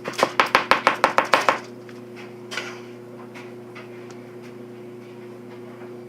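A spoon knocking rapidly against the cooking pot while scooping no-bake cookie mixture out, about ten quick strikes in a second and a half, then a steady low hum.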